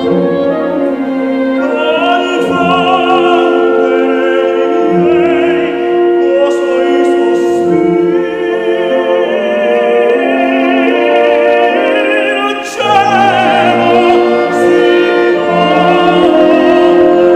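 Operatic singing with wide vibrato over orchestral accompaniment.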